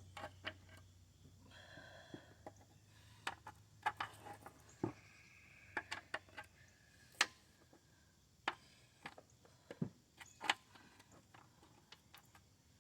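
Irregular sharp metal clicks and clinks, a dozen or so at uneven intervals, from mounting bolts and hand tools being handled while an engine is fitted onto a lawn mower deck.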